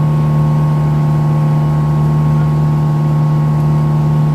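Boat engine running steadily at a constant pitch while under way.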